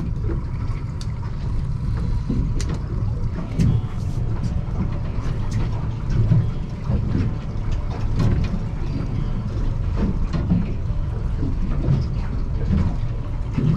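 Steady low rumble aboard a small fishing boat at sea, with scattered light knocks and clicks.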